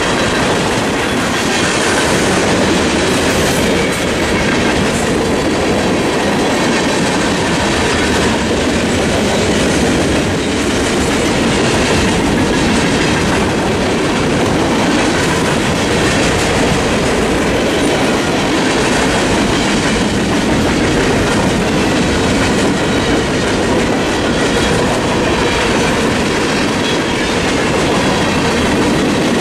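Mixed freight train's cars rolling through a level crossing. Steady rumble and clatter of steel wheels on rail, with no let-up.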